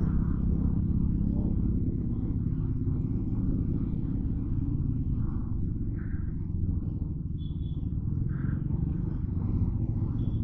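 Motorcycle engine running steadily while riding at low speed, a low, even rumble.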